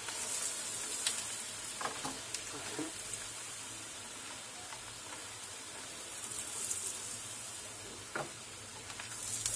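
Breaded kofta kebabs deep-frying in hot oil: a steady sizzle with a few small clicks.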